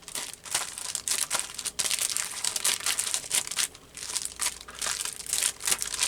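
Dense, irregular crinkling and rustling as a pile of stamps and their packets are handled and sorted by hand.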